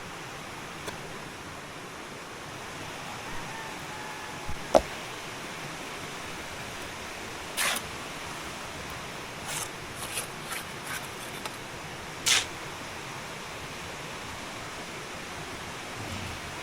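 Steady rushing of water, with a handful of sharp knocks and clicks; the loudest knock comes about five seconds in, a second stands out near the twelve-second mark, and a small cluster falls between them.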